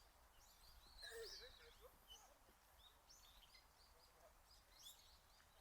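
Faint, scattered bird chirps and short calls from several birds, over quiet outdoor ambience.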